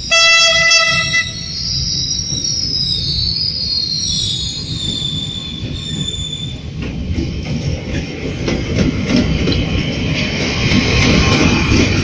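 Freight train hauled by a D20E locomotive: a loud horn blast lasting about a second at the start, a high wheel squeal a few seconds in, then the rumble and clatter of the passing train building toward the end.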